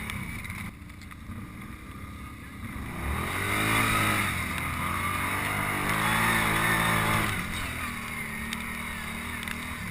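ATV engine running, pulling harder for about four seconds starting around three seconds in, then easing back to a lower steady run, as the quad works through deep, soupy mud.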